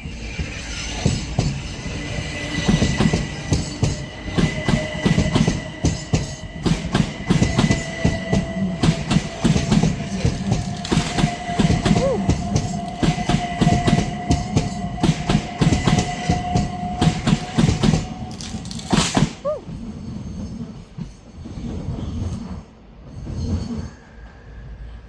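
A train running past, its wheels clicking rapidly over rail joints under a steady high whine. The sound cuts off abruptly about 19 seconds in, leaving a quieter rumble.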